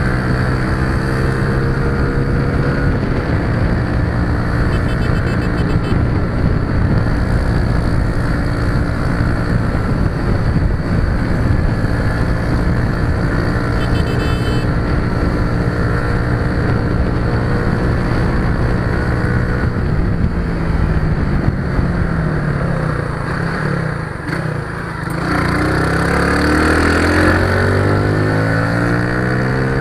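A motor vehicle's engine running at steady revs under a wash of wind or road noise. About twenty seconds in the revs fall away, then climb again near the end.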